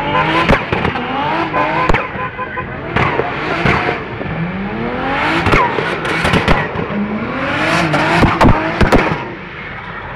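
A car engine revving hard during stunt driving, its pitch climbing four times in a row, with several sharp cracks among the revs.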